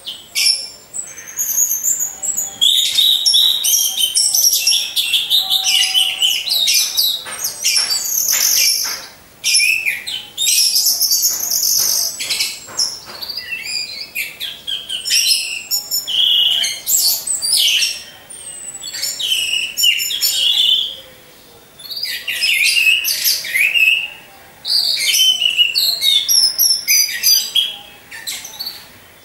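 Orange-headed thrushes (anis merah) singing: fast, varied, high-pitched phrases in runs of a few seconds, broken by short pauses.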